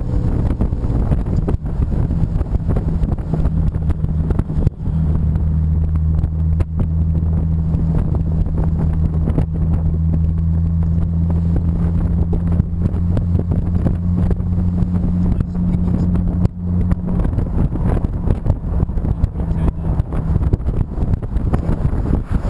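Engine of an open-top TVR 3000S, a Ford Essex 3.0 V6, running at a steady cruise, heard from inside the cabin with wind rushing over the microphone. The engine note dips briefly twice, about five seconds in and again a little past the middle.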